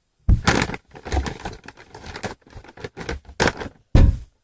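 A tissue being pulled and crumpled close to the microphone, rustling and crackling in a string of bursts, the loudest near the end.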